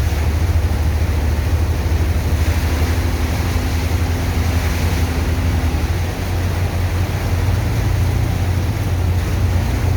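Sand dredger's engine and water pump running steadily, a low rumble under a wash of rushing water and wind noise.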